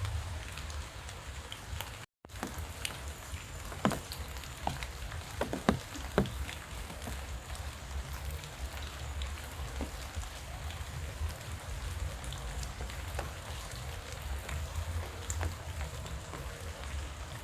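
Steady rain falling, with scattered louder drops tapping close by, over a low rumble. The sound cuts out completely for a moment about two seconds in.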